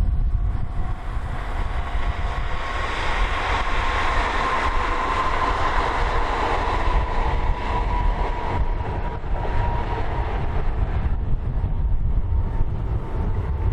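Tobu 20400-series electric train passing: its running noise swells from about two seconds in, peaks, then fades before the end, with a steady whine that drifts slightly lower in pitch. Strong wind buffets the microphone with a low rumble throughout.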